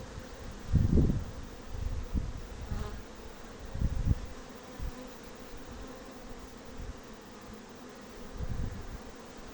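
Honeybees buzzing steadily as they fly, a colony back at work after cold, rainy weather. Several low buffets on the microphone rise above the hum, loudest about a second in and around four seconds.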